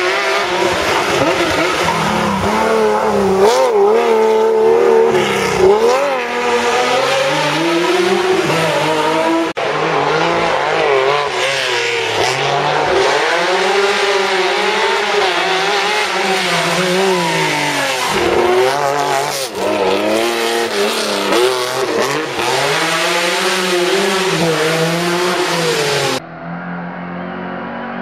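Historic rally cars driving a closed stage at full throttle, their engines revving up and dropping back again and again through gear changes and braking. Several cars or shots follow one another, and the last couple of seconds are quieter and duller.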